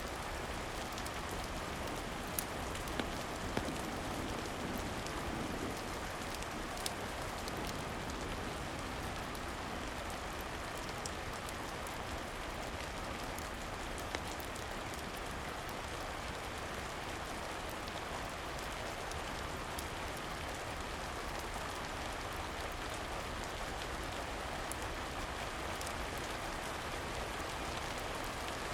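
Steady rain falling, an even hiss with a few sharp clicks, mostly in the first several seconds.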